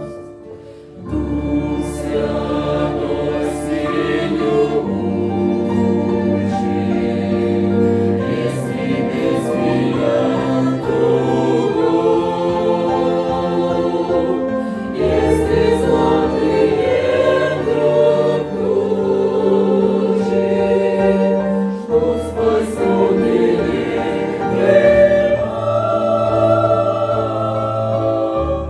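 Choir singing a hymn in sustained chords, with a brief drop in level just after the start before the singing comes back in.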